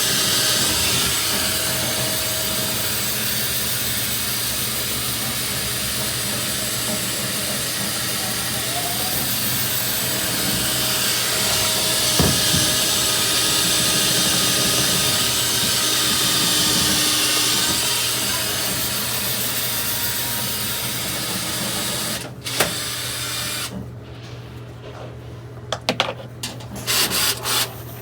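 Power drill running steadily with a rushing hiss of air, spinning a dryer-vent cleaning brush in the duct. It stops a few seconds before the end, leaving a few short scattered rattles.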